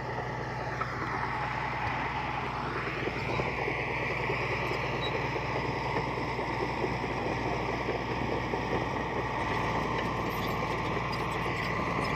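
Heavy diesel earthmoving machinery running steadily, the deep engine note of a bulldozer or dump truck at work, with a shift in its higher tones about three seconds in.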